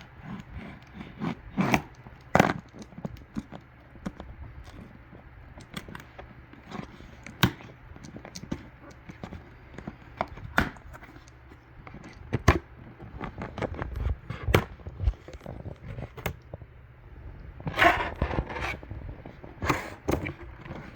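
Packaging and parts being handled: irregular knocks, taps and scrapes, with clusters of rustling and clattering around two-thirds of the way through and near the end.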